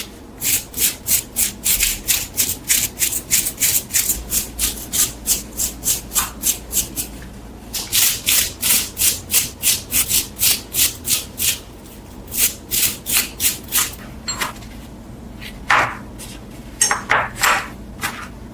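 Quick back-and-forth hand-rubbing strokes of an abrasive on a steel knife, about three or four strokes a second, with a few short pauses.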